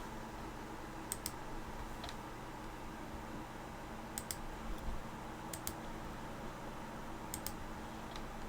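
Clicking at a computer: four quick double clicks spread over several seconds, with a few fainter ticks, over a faint steady hum.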